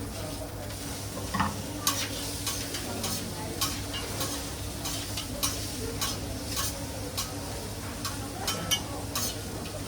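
Food sizzling at a buffet live-cooking station, with repeated sharp clinks of metal utensils over a steady hiss and hum.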